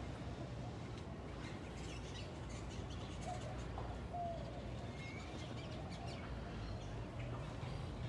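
Birds in an aviary building giving a few short, faint chirps and whistled notes, over a low steady hum.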